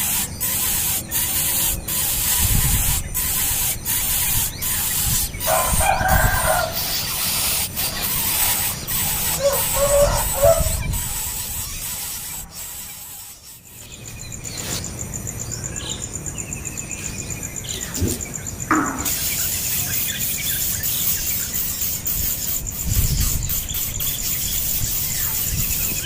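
A young bird squealing in shrill bursts, with repeated sharp clicks through the first half.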